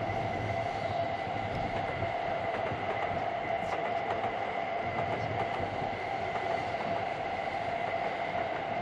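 E7 series Shinkansen and a commuter train running past side by side: steady rolling noise of wheels on rails, with a steady whine over it.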